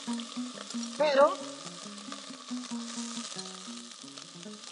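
Corn kernels sizzling as they are poured into hot oil with softened onion and garlic in a stainless steel pot, a steady frying hiss.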